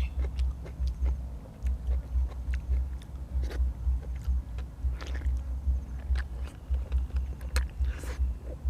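Close-miked chewing and biting of braised pig's head and fresh vegetables: rhythmic chewing thuds about two to three a second, with sharp crunches and mouth clicks scattered through.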